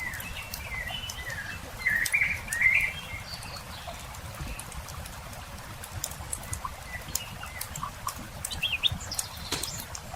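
Campfire crackling with scattered sharp pops over a low, steady rumble, while birds sing. A burst of bird calls about two seconds in is the loudest part, with a few more chirps near the end.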